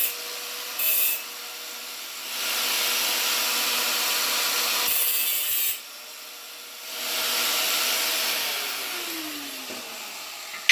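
Electric power tool running with a steady motor whine while it cuts steel stock in two long loud passes; near the end the motor is switched off and its whine falls away as it spins down.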